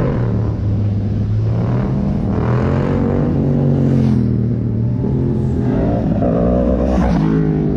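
Car engines running and revving, the pitch rising and falling several times over a steady low engine rumble.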